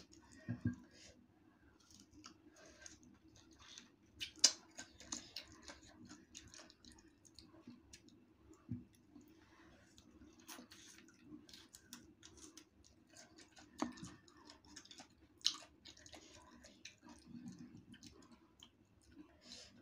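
Quiet bites and chewing of firm, unripe green mango, heard as scattered short crunches and mouth clicks; the sharpest crunch comes about four and a half seconds in.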